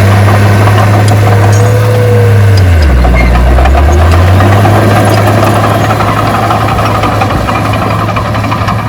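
Heavy diesel engine of earthmoving equipment running loudly. Its pitch drops about three seconds in and climbs back over the next second or so.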